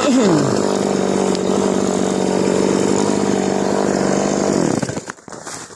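Two-stroke chainsaw running steadily, with a brief dip and rise in revs near the start, then cutting off about five seconds in.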